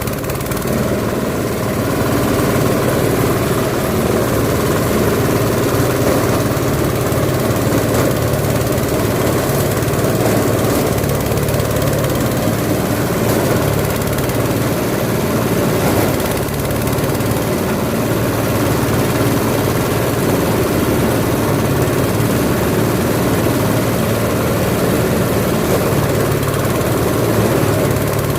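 Cocopeat grinding machine (coconut-husk grinder) running steadily, a loud, even machine noise with no breaks.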